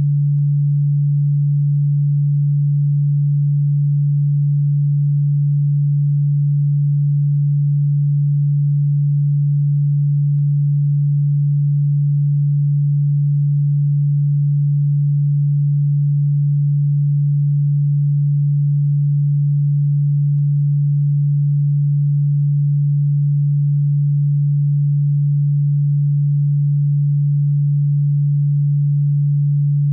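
A steady electronic sine tone, low-pitched and unchanging, held without a break.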